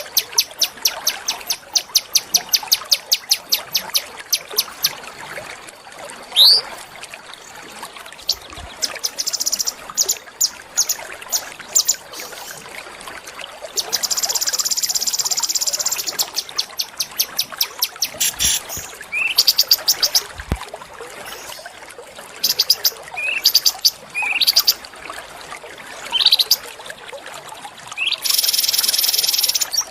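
Small songbird singing a masteran tutor song: fast runs of sharp, high repeated notes, several short rising whistles, and two longer buzzy trills, one in the middle and one near the end. A faint steady hiss sits under the song.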